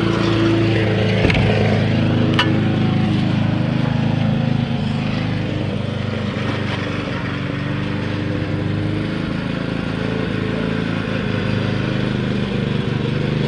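Small petrol engine running steadily, with two sharp clicks in the first few seconds.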